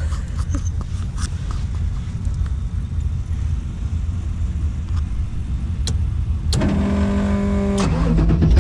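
Car engines running with a steady low rumble, with scattered clicks. About six and a half seconds in, a held pitched tone sounds for just over a second, then steps down lower before stopping.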